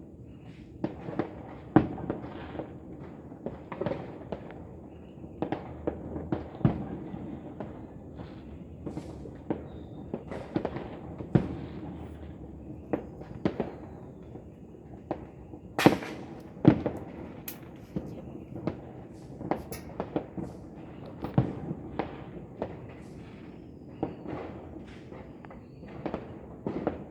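Fireworks and firecrackers going off across a city: many irregular bangs and pops at varying distances over a steady background hiss, a few much louder than the rest.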